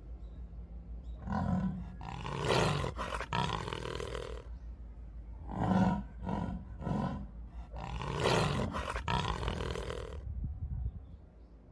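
A big cat roaring, several separate calls in a row, with a quick run of short grunting pulses about six seconds in.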